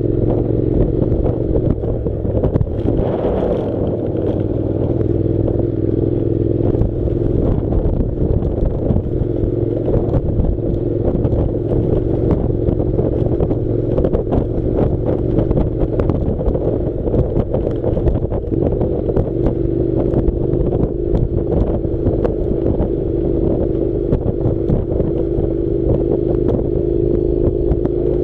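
Honda NC700 motorcycle's parallel-twin engine running at a steady pace, its pitch rising slightly about two-thirds of the way through. Frequent knocks and rattles come from the bike jolting over a rough dirt track.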